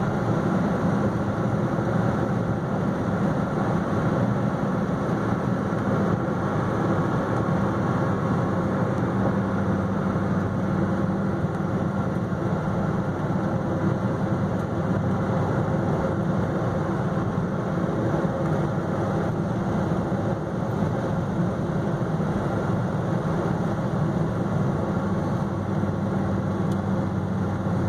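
Dodge Viper SRT10's 8.4-litre V10 engine and tyre noise heard from inside the cabin while cruising at a steady speed: an even, low drone.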